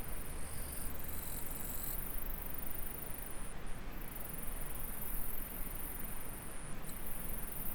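Insects singing in a continuous high-pitched trill with brief breaks, over the steady rush of flowing stream water.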